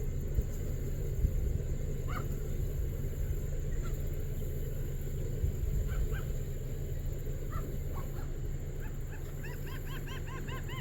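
Birds calling: a few scattered short calls, then near the end a quick run of repeated rising-and-falling calls, several a second, over a steady low rumble.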